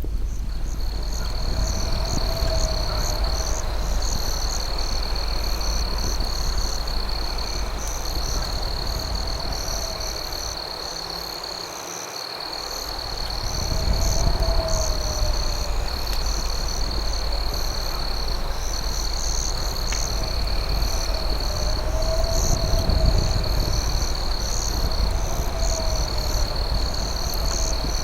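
Night insect chorus: crickets giving a steady high trill, with pulsing chirps above it. A lower call rising and falling in pitch repeats every few seconds, over a steady low noise that fades and returns about ten to thirteen seconds in.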